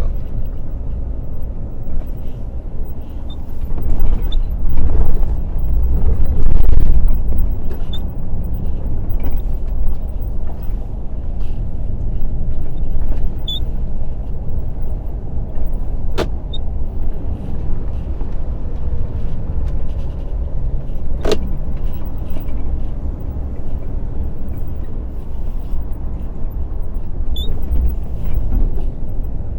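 Truck on the move: a steady low engine and road rumble that swells louder for a few seconds near the start, with two short sharp clicks about halfway through.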